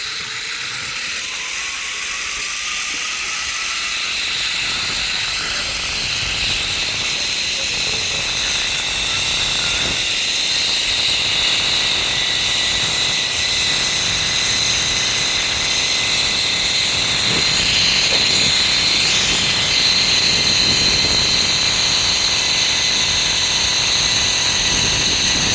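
Steady high-pitched insect chorus, a dense buzzing that slowly grows louder.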